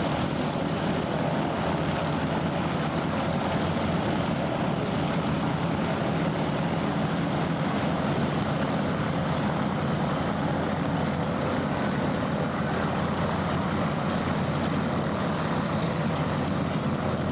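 Propeller airplane engine running steadily, a continuous even noise with a low hum underneath.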